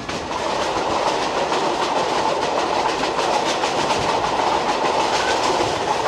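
Passenger train running along the rails, heard from inside the carriage: a steady rattle and rumble with fast, continual clicking from the wheels on the track.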